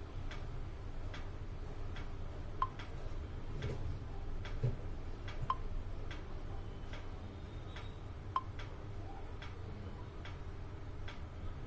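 Light ticks and clicks repeating through a steady low hum.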